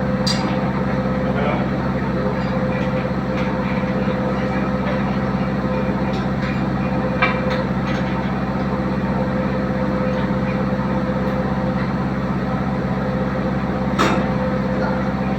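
Diesel engine running steadily with an even drone, with a couple of short metallic clicks about halfway through and near the end.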